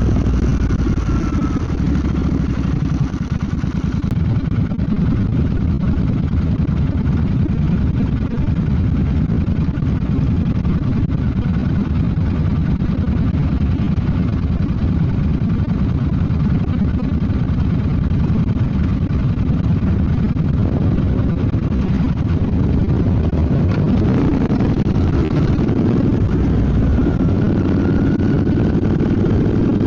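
Royal Enfield Bear 650's 648 cc parallel-twin engine running steadily under way, with the engine note shifting as the revs change near the end.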